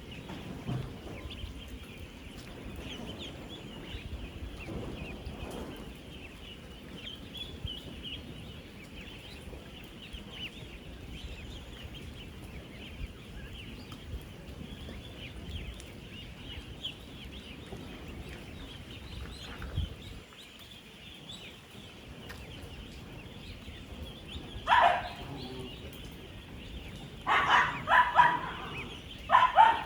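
A dense, continuous chorus of thousands of ten-day-old ducklings peeping together over a low rumble. Several louder calls break in near the end.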